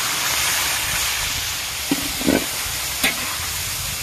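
Food sizzling steadily in hot oil in a large steel wok over a wood fire, with a few short knocks of the metal spatula against the wok about halfway through and near the end.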